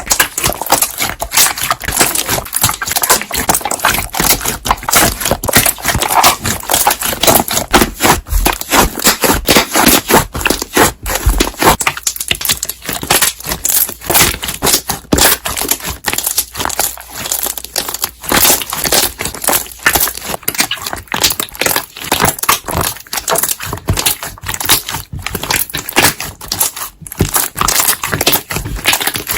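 Slime being squeezed and kneaded, pressing trapped air out in a dense, continuous run of small pops and crackles.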